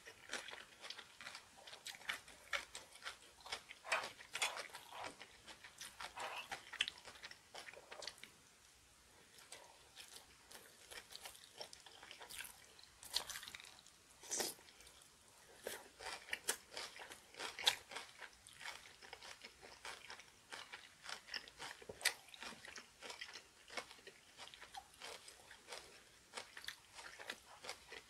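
Close-up chewing of rice and spicy kimchi, with crisp crunches as pieces of ponytail-radish kimchi are bitten and chewed, and wet mouth sounds. There is a short lull about nine seconds in.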